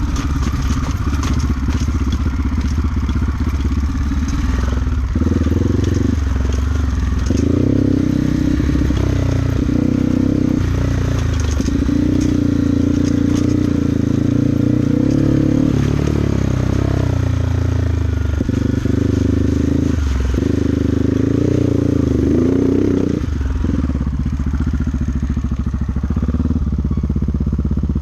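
Trail motorcycle engine running while riding a rough dirt track, its revs stepping up and down repeatedly.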